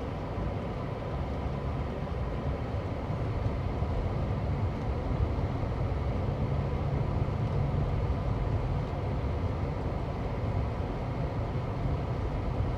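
Road and engine noise inside a moving car's cabin: a steady low rumble from the car driving over wet, slushy pavement, swelling slightly midway.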